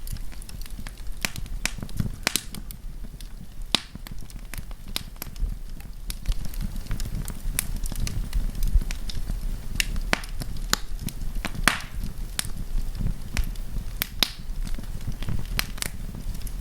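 Wood campfire burning and crackling: irregular sharp pops and snaps, several a second, over a steady low rumble of the flames.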